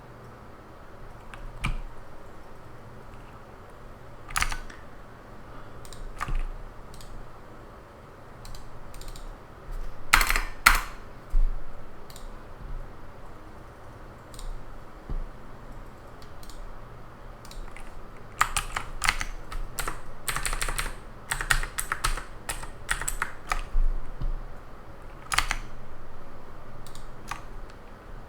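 Computer keyboard being typed on. Single keystrokes come now and then, with a louder pair of clacks about ten seconds in and a quick run of typing in the second half. A low steady hiss sits underneath.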